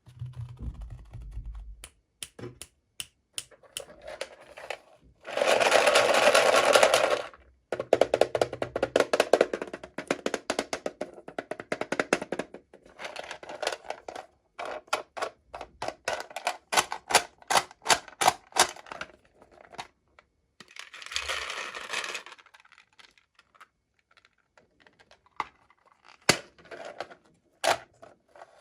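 Toy packaging being handled and opened: plastic and cardboard clicking and tapping, with a loud rustle or tear about five seconds in, a long run of rapid clicks, and another rustle near twenty-one seconds.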